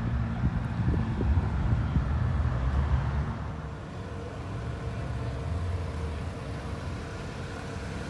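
Car engine and exhaust running with a low, steady rumble, louder for about the first three seconds and then easing back.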